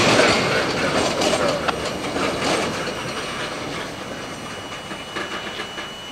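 Freight train cars rolling along the rails with a faint clickety-clack, loud at first and fading steadily as the train moves away.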